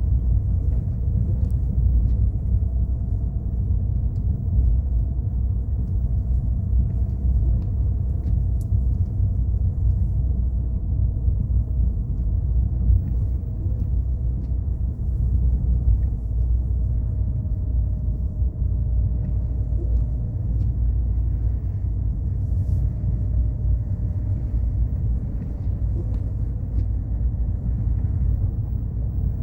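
Car driving steadily: a constant low rumble of engine and tyres on the road, with a faint steady hum and a few light ticks.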